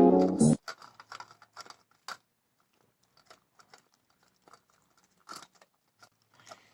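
Background music cuts off about half a second in. It is followed by faint, irregular crunching clicks of a dog chewing.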